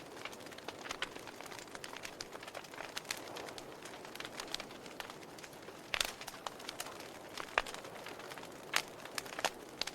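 Wood fire in a fireplace crackling: irregular sharp pops and snaps over a soft steady hiss, a few louder pops in the second half.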